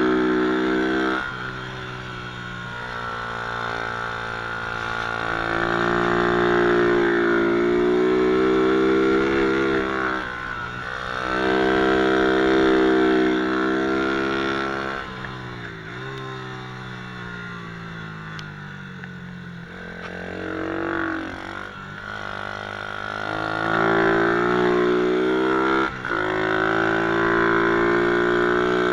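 MRF 120 cc pit bike engine revving hard and backing off again and again, its pitch dropping each time the throttle closes. The loudest bursts come about six, twelve and twenty-four seconds in.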